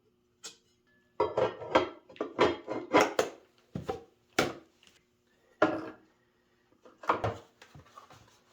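Hard, wood-sounding objects knocking and clattering as they are handled: a quick run of knocks for a few seconds, then a few single knocks and lighter rattles near the end.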